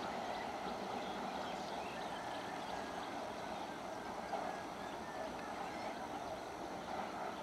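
Steady, faint running noise of an approaching electric multiple unit local train of Indian Railways.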